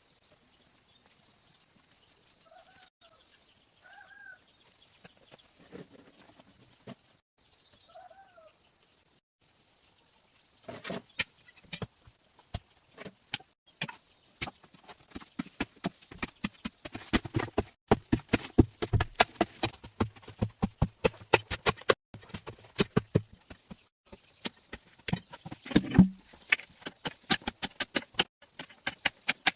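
A few soft, short bird calls in the first several seconds. Then, from about ten seconds in, a long run of rapid, irregular clicks and taps.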